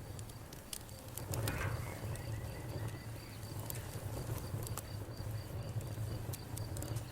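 Campfire crackling: scattered sharp pops and snaps over the low, steady rumble of the burning fire, with a faint high pulsing chirp throughout.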